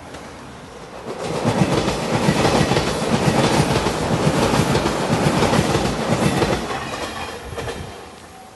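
Five-car JR Shikoku 8000 series Shiokaze electric limited express passing at speed, wheels clattering over the rail joints. It swells up about a second in, stays loud for about six seconds as the cars go by, and fades near the end.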